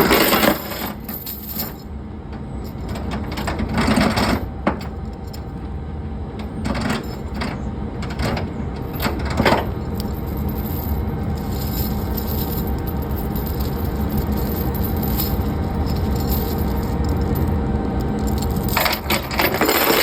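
Steady low rumble with a few sharp metallic clinks and knocks scattered through it; the loudest come near the start, around the middle and near the end.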